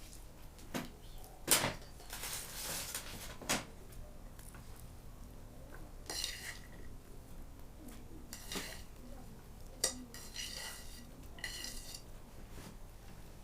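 Dishes and cutlery clinking: a handful of separate sharp knocks, several of them followed by a short metallic ringing tone.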